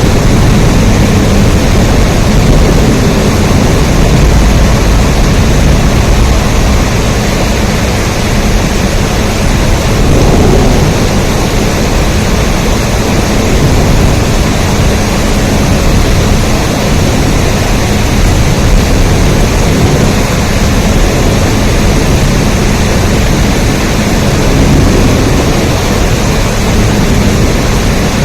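Steady, loud rain: an unbroken hiss with a deep rumble beneath it.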